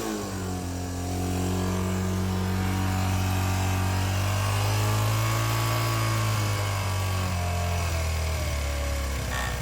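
Honda CT110 postie bike's single-cylinder four-stroke engine running at idle, its revs rising gently around the middle and dropping back lower near the end.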